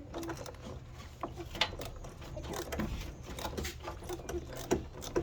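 Ramtons washing machine running: a steady low motor hum with irregular clicking and rattling.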